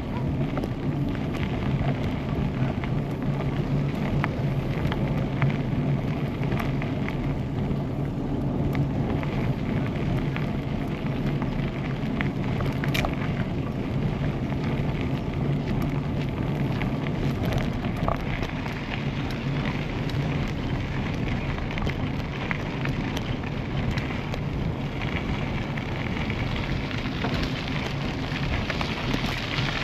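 Steady wind noise on an action camera's microphone while riding a bicycle, with a continuous crackle from the bike rolling along the path.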